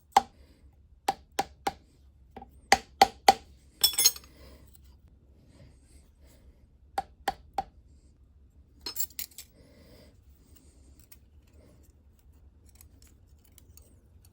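Sharp metallic clinks and taps of steel parts and a steel scale against a valve ball and a milling-machine fixture, coming in short scattered groups over a faint shop hum.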